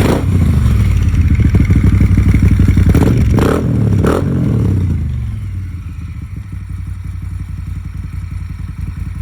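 Moto Guzzi 1400 California Touring's 1380 cc air-cooled 90-degree V-twin with Mistral mufflers running at raised revs, then dropping back to idle about five seconds in. A few sharp knocks sound over it in the first half.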